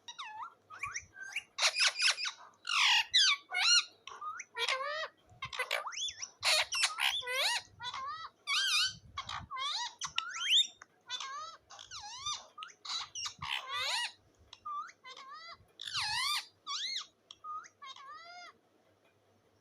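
Pet parrot giving a rapid string of short squawks and chattering calls, each call sliding up or down in pitch. The calls thin out and stop near the end.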